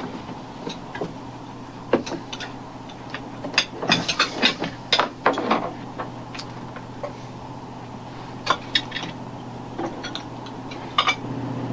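A ship's engines hum steadily and low, with scattered light knocks and clinks.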